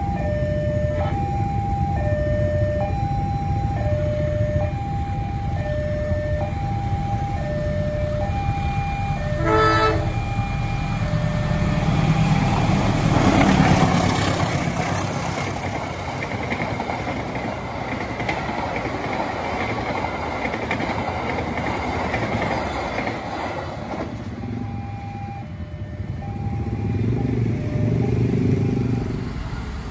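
Level-crossing warning alarm chiming in two alternating tones. About ten seconds in, a KAI diesel locomotive gives a short horn blast, and a passenger train passes at speed, its wheels running on the rails for about twelve seconds and drowning out the alarm. Near the end the alarm is heard again under idling motorcycle engines.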